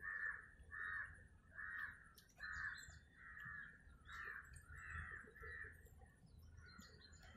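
A bird calling over and over, an even series of about eight calls that fade out near the end.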